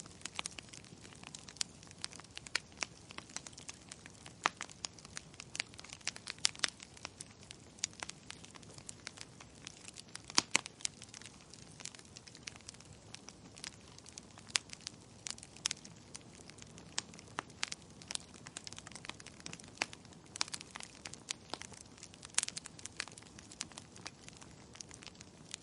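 Wood fire crackling steadily, with frequent irregular snaps and pops over a low hiss, a few of them sharper and louder.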